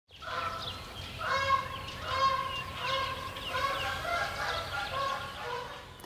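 Wild birds calling: repeated pitched calls about half a second long, with quicker, higher chirps over them.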